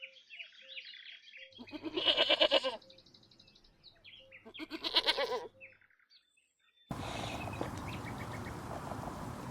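A goat bleating twice, each bleat about a second long, over small birds chirping. Near the end the sound cuts off and gives way to a steady outdoor hiss.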